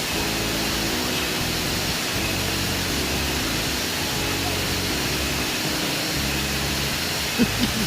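Waterfall roaring, a steady even rush of water.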